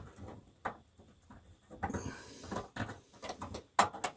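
Scattered light clicks, taps and rubbing from a bathroom heater's parts being handled and fitted, with one sharp click near the end.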